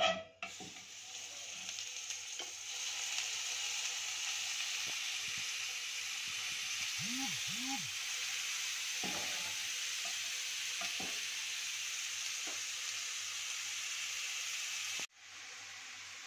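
Marinated chicken and vegetable skewers sizzling in hot oil on a ridged grill pan as they are laid down, the hiss building over the first few seconds and then holding steady. A few light knocks come as skewers are set against the pan, and the sizzle drops abruptly quieter about a second before the end.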